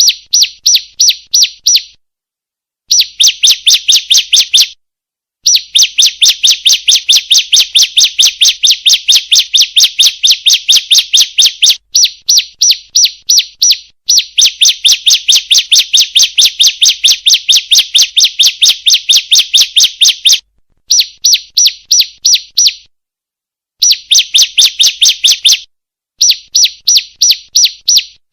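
Female ciblek (bar-winged prinia) calling: a fast, even run of high chirps, about five a second, in bouts broken by a few sudden silent gaps. It is a lure call, meant to set other ciblek singing.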